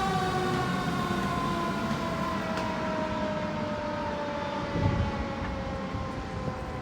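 Fire truck siren sounding one long tone that slowly falls in pitch and fades, like a siren winding down.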